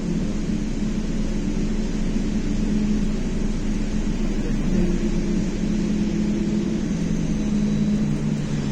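Inside a BKM-321 trolleybus on the move: a steady hum from the electric traction drive over tyre and road noise. Its tones shift about halfway through as the drive changes speed.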